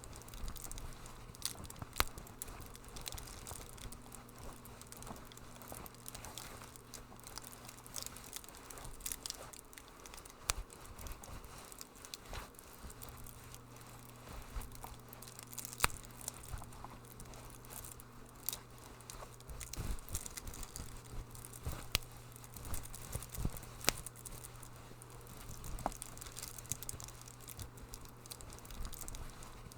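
Wood fire crackling in a fireplace: irregular sharp pops and snaps over a soft hiss, with a few louder pops, and a low steady hum underneath.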